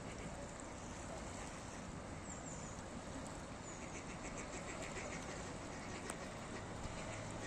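Steady rushing background noise with faint, high bird chirps now and then on top.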